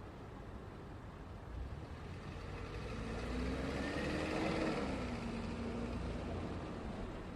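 Road traffic with a steady low rumble, as one motor vehicle drives past: it builds up, is loudest just past the middle, and fades, its engine note dropping in pitch as it goes by.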